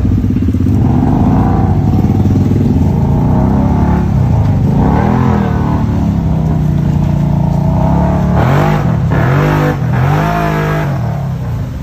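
Supercar engine running and being revved. Its pitch rises and falls in several quick blips in the second half.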